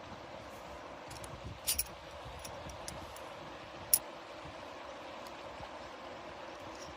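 Wood pellets burning in a small camp stove: a steady rushing fire noise with a few sharp crackles, two close together a little under two seconds in and a loud single one about four seconds in.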